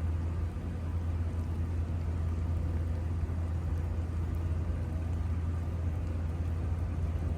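A steady low mechanical hum, like an engine or machine running at a constant speed, over light background noise.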